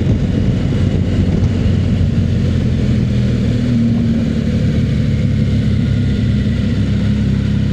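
Motorcycle engine running steadily while riding down a steep hill, with a low rumble of road and wind noise.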